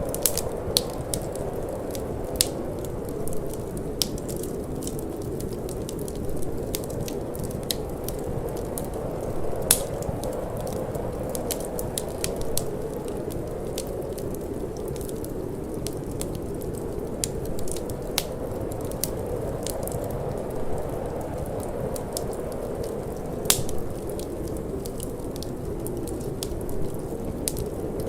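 Wood fire burning in a fireplace, crackling with many sharp, irregular pops, a few louder than the rest, over a steady low rushing of cold wind.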